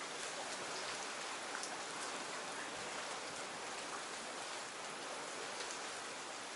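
Steady rain falling: an even hiss with scattered individual drops ticking on a surface.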